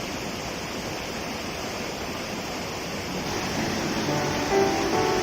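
Mountain stream rushing steadily over rocks, a constant watery hiss. A little past halfway, music of plucked guitar-like notes comes in over it and grows louder.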